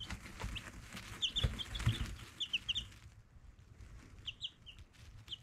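Young chicks peeping in short, high cheeps that come in little clusters about every second, with a couple of dull low knocks near the middle.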